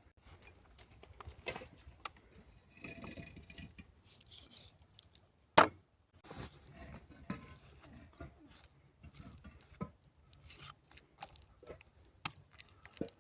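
Scattered light knocks and clicks of food and utensils being handled during cooking preparation, with one sharp, much louder click about five and a half seconds in.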